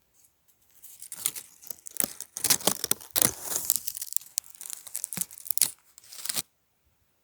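Close, irregular crunching and crackling footsteps on the forest floor. They start about a second in and stop after about six seconds.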